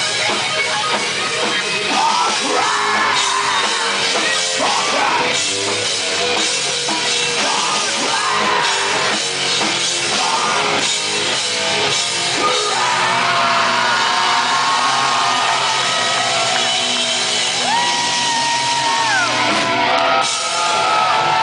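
Live industrial-metal band playing loud, with drums, distorted guitar and shouted vocals. About halfway through, the dense playing gives way to long held notes.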